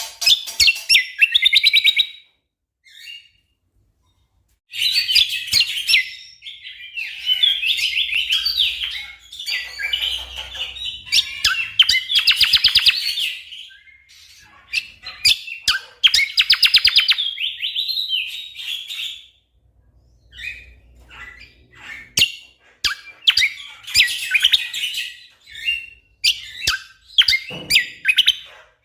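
Cucak kombo (kecial kombok) singing loudly in bursts of rapid, tightly packed chattering notes. Each burst lasts one to three seconds, and the bursts are broken by short pauses and single sharp chips.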